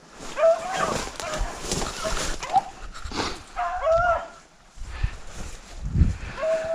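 A pack of beagles baying on a rabbit's trail: several drawn-out bawls from the running hounds, overlapping and coming every second or two.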